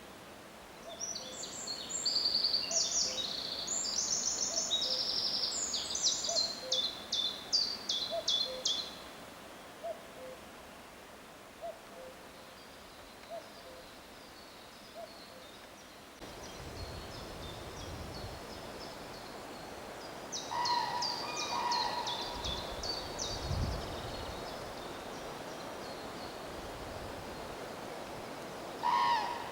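Songbirds singing: a fast run of high, rapid notes in the first nine seconds, heard again around twenty seconds in and at the end. Under it, a soft low call note repeats about every second and a half for the first fifteen seconds. Brief low rumbles come in around the middle.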